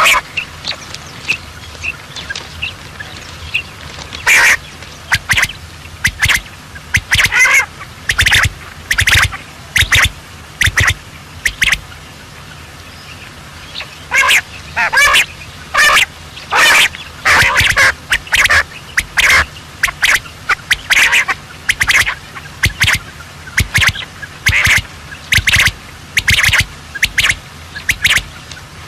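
Birds calling over and over in short separate calls, coming in clusters with a brief lull partway through.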